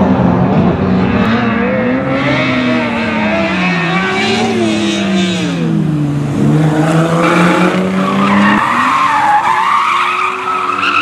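Rally car engine revving up and down as the driver works the throttle, with tyres squealing as the car slides through a corner in the second half.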